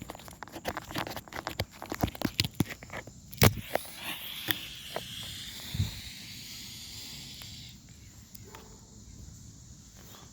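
Clicks and taps of a pull-string smoke grenade being handled, with a sharp snap about three and a half seconds in. A thin hiss follows for about four seconds as the grenade starts to burn, its smoke barely coming out.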